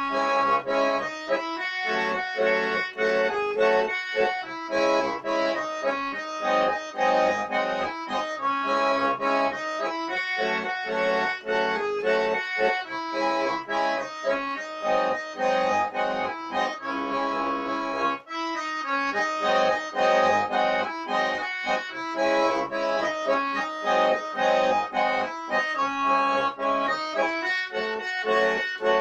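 An MI-8 Russian garmon with reed plates ('planka') playing a melody over a pulsing chord accompaniment, with a brief break about two-thirds of the way through.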